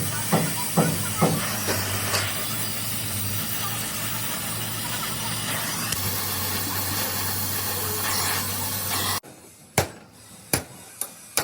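A steady hiss over a low hum, with a few knocks in the first second or so. It cuts off abruptly near the end, leaving a quieter background with a few sharp clicks.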